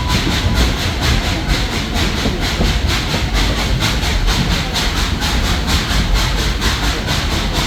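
Steam excursion train running, heard from aboard a passenger car: a steady rumble and rattle of the car on the rails with an even, rapid beat.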